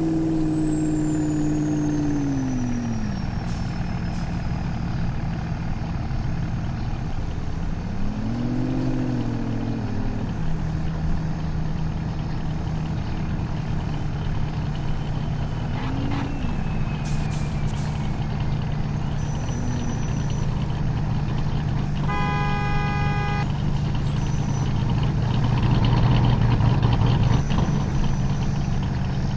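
Truck engine running on the road, its note dropping over the first few seconds, rising and falling again around nine seconds, then holding steady. A short horn toot sounds about 22 seconds in.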